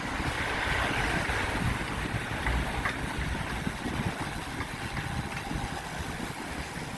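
Wind rumbling on the microphone with road noise while riding a bicycle: a steady, fluttering rumble with a hiss above it.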